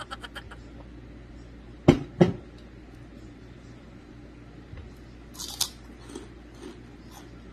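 Close-up eating of a crisp pork rind chip: a bright crunch a little past halfway, with small chewing clicks after it. Two sharp knocks about two seconds in are the loudest sounds.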